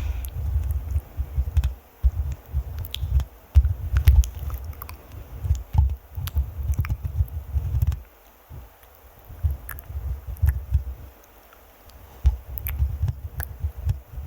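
Fingers scratching and rubbing directly on a microphone, giving a dense low rumble with crackly clicks, in long stretches with short pauses about eight and eleven seconds in.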